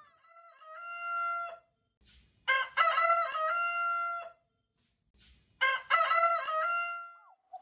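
Rooster crowing three times, each a long cock-a-doodle-doo; the first is fainter and the second and third are louder.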